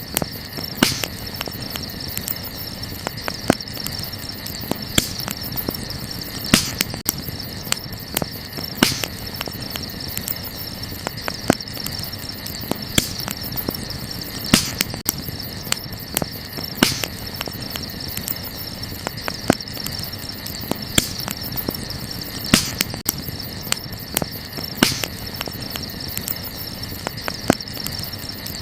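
Wood fire crackling and popping, with many small sharp cracks and a louder pop every couple of seconds. A steady high chirring of night insects runs underneath.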